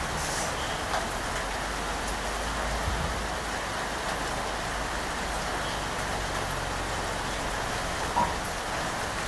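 Steady rain falling, an even hiss with a few louder drops standing out now and then, over a low steady rumble.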